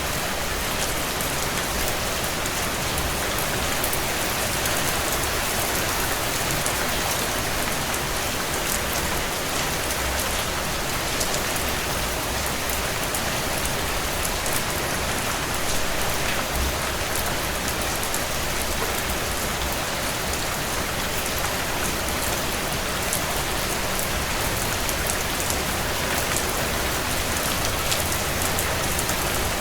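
Steady heavy rain beating on window glass, an even hiss with scattered faint ticks running through it.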